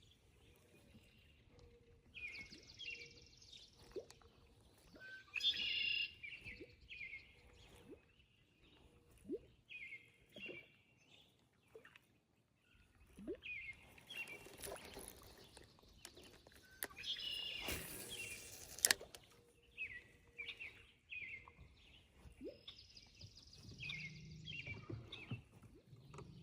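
Songbirds singing faintly: short chirping phrases repeated every couple of seconds.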